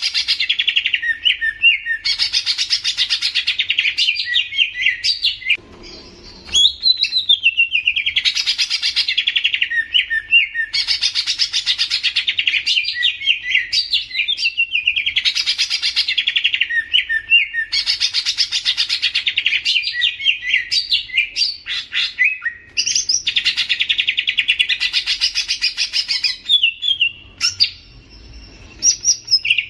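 A songbird sings long, fast, chattering warbled phrases, one after another with short breaks between them.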